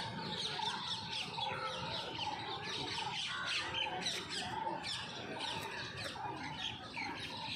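Many birds chirping and calling at once: a dense, unbroken chorus of short, high chirps.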